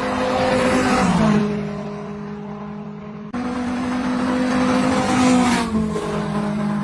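Car engine running hard under acceleration, its pitch dropping at a gear change about a second in. The sound cuts abruptly to another stretch of hard running a little past three seconds in, and the pitch drops at another gear change near the end.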